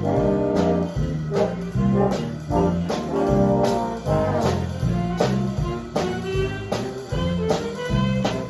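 Big-band swing music: a brass section playing over a walking bass line and steady drum-kit time.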